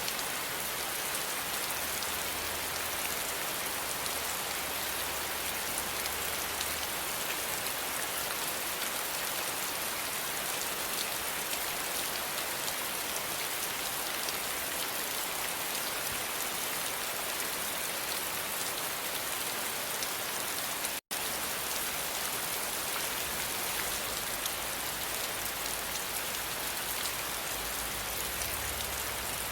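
Steady rain falling, an even hiss of countless drops, which cuts out completely for an instant about two-thirds of the way through.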